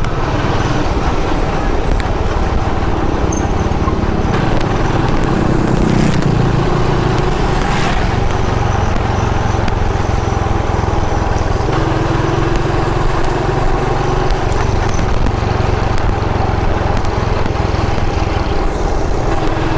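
Motorcycle engine running steadily while riding, its note shifting a few times as the speed changes.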